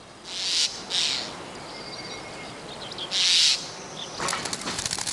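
Three short rushing bursts of bird wingbeats, with faint bird chirps between them. Near the end comes a rapid run of sharp clicks.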